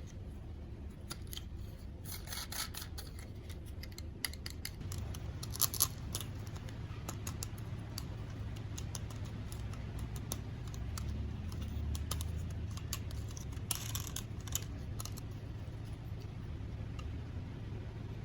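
Toy packaging and small plastic toys being handled and opened: scattered clicks, scrapes and short rustles, over a low steady hum.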